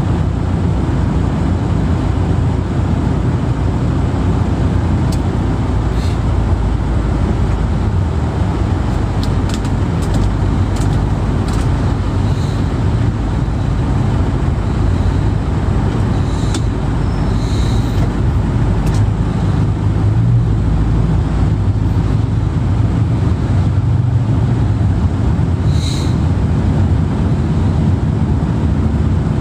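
Steady low rumble of a moving vehicle, like road noise heard from inside a car, with a few faint ticks.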